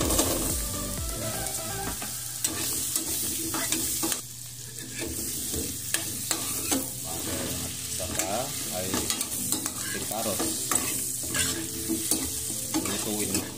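Potato and carrot slices sizzling in foaming butter in a frying pan, stirred and turned with a spoon that clicks and scrapes against the pan.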